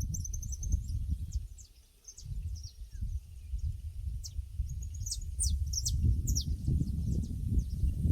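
Pasture ambience: small birds chirping in quick, high, falling notes over an uneven low rumble that drops away briefly about two seconds in.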